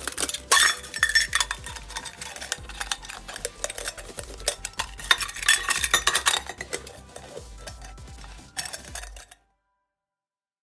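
Metal utensil clinking and scraping against a Trek 900 camp cook pot in quick, irregular strikes, like stirring or handling the pot. It cuts off to silence about nine seconds in.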